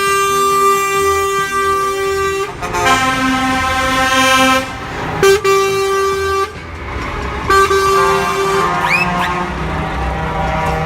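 Truck air horns blowing a run of long blasts, the pitch changing every second or two with short breaks between, like a multi-tone horn working through a tune. A couple of short rising whistles cut in about nine seconds in.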